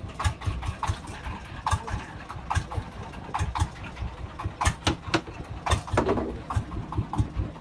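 An engine idling with a pulsing low rumble, and irregular sharp clacks and knocks over it.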